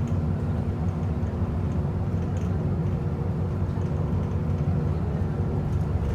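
Steady low rumble of a vehicle's engine running, with a constant hum over it, cutting in suddenly.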